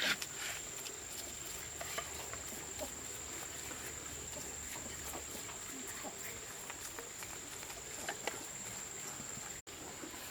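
A steady high-pitched insect drone, with scattered small taps and clicks over it and a louder tap at the start; the sound cuts out for an instant near the end.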